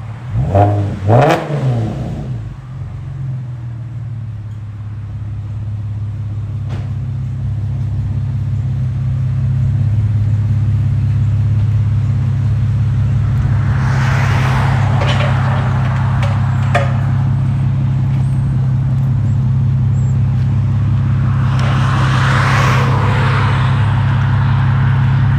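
Chevy Camaro 3.6L V6 with Flowmaster FX mufflers and the resonators deleted: one quick rev blip, then a steady idle that slowly gets louder. Two short swells of rushing noise come over the idle, one about halfway through and one near the end.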